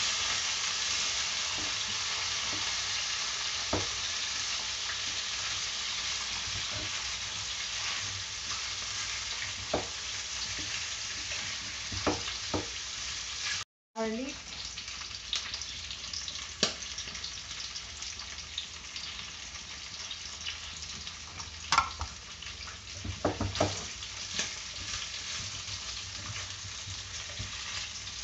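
Chunks of carrot and meat sizzling in oil in a pot, stirred, with occasional sharp clacks of the utensil against the pot. The sizzle drops out for a moment about halfway through.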